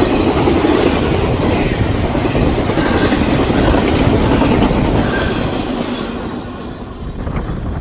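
Double-stack intermodal train's container well cars rolling past close by: a loud steady rumble and clatter of steel wheels on the rails. It fades over the last couple of seconds as the tail of the train goes by.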